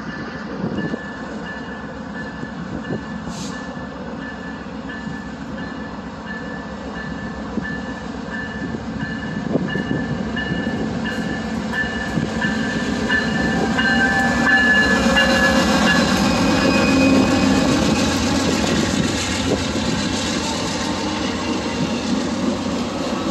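Via Rail passenger train going by on the track, its rumble and wheel noise building to a peak about two-thirds of the way in and then easing a little. A regular repeating high tone sounds through the first half.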